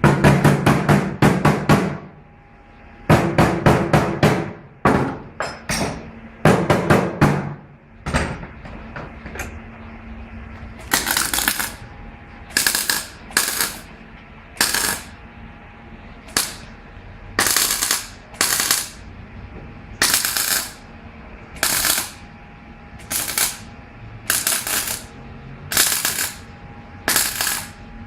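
Rapid rattling impacts from a power tool, in bursts. Three long runs come in the first seven seconds, then short bursts about every second and a half.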